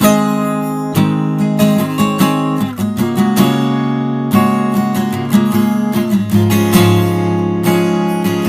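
Music: acoustic guitar strumming chords in a steady rhythm, starting abruptly.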